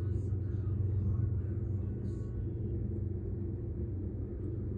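CSX freight train passing, a steady low rumble from its diesel locomotive and rolling cars.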